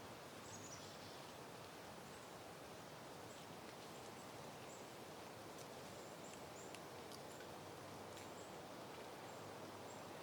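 Soft, steady wind moving through flowering peony plants, a faint even rush of air without gusts. Faint, short, high-pitched chirps come through now and then.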